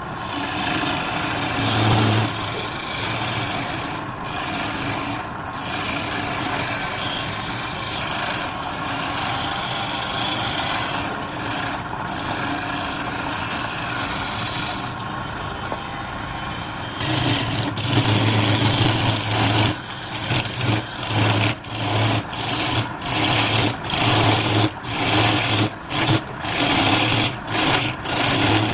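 Wood lathe running with a turning tool scraping against the spinning wood. In the last third the scraping breaks into short, repeated strokes, about one or two a second.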